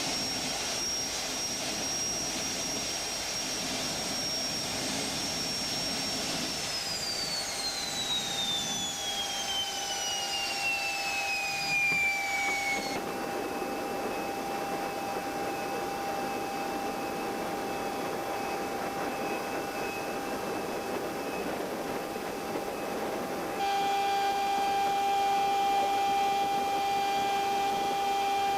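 Bristol Olympus turbojet of an Avro Vulcan being dry-motored by its air-start motor, throttle closed and ignition off, so it turns without firing. A steady high whine runs down in pitch about a quarter of the way in as the spool slows. The sound then changes abruptly twice to steady whines and a hum.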